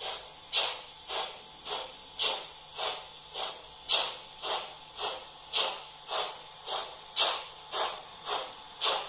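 Synthesised steam exhaust chuffs of a class 45 three-cylinder steam locomotive, played by an ESU LokSound 5 sound decoder through the built-in speaker of a Märklin H0 model locomotive. A steady beat of a little under two chuffs a second, every third chuff louder, in step with the three cylinders.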